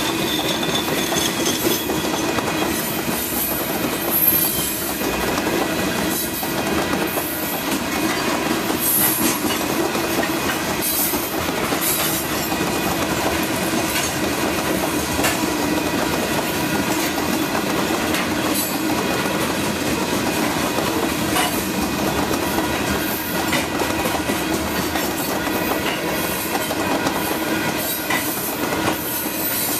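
Covered hopper cars of a long freight train rolling steadily past: a constant rumble with the clickety-clack of wheels over the rail joints.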